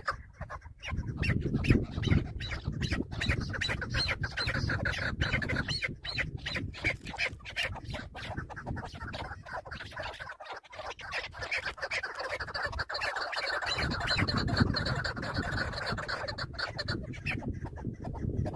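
Chukar partridges calling, a fast run of repeated clucking chuck notes, over a low rumble that drops away for a few seconds past the middle.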